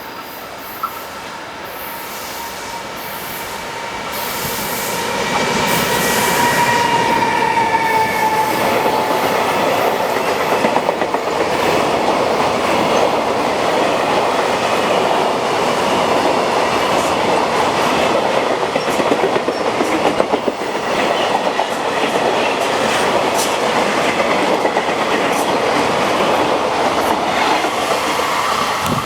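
Freight train hauled by an EF510 electric locomotive passing through. The sound grows over the first few seconds, and a high tone falls in pitch as the locomotive goes by. Then comes the long, steady rumble and clatter of the wagons over the rails.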